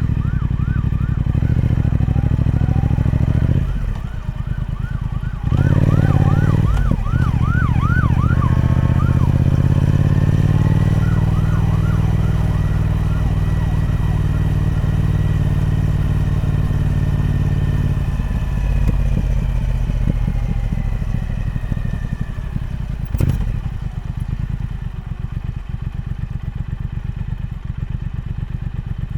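Triumph Speed Twin 1200's parallel-twin engine through its stock exhaust: it ticks over with a pulsing beat, gets louder and runs steadily from about five seconds in, then drops back to an idling beat about two-thirds of the way through. A faint high wail rising and falling about twice a second sounds behind it in the first half, and there is one sharp click near the end.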